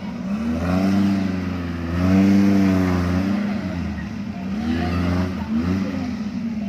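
Off-road 4x4's engine revving through mud, its pitch rising and falling in about four swells, the strongest about two seconds in.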